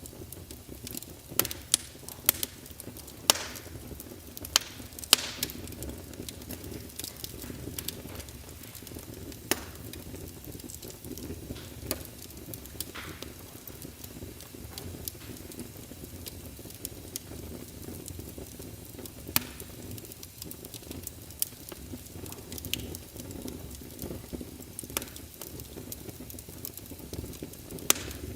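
Fire in a fireplace crackling: irregular sharp pops and snaps over a steady low hiss and rumble, with the loudest pops clustered between about one and five seconds in.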